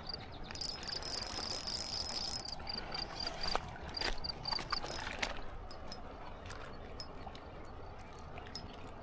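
An insect chirping in a high, thin pulse about three times a second, with one longer unbroken trill early on; it stops about five seconds in. Underneath is a low steady outdoor hiss and a few faint clicks.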